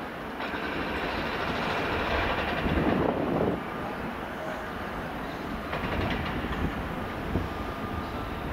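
Class 67 diesel locomotive hauling a rake of coaches slowly over pointwork, its engine running under a clatter of wheels over the crossings. The clatter is heaviest in the first few seconds, eases off, then picks up again about six seconds in.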